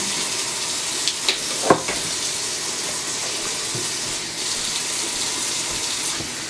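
Steady rushing hiss, like running water, with a few light clicks between one and two seconds in.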